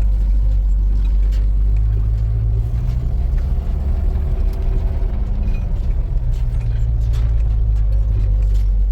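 Motor vehicle running steadily, a constant low rumble.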